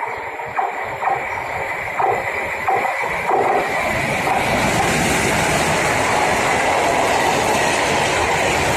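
Freight train passing close: wheels clacking over rail joints about every two-thirds of a second, then from about three and a half seconds in a loud, steady rush of wagon wheels on the rails.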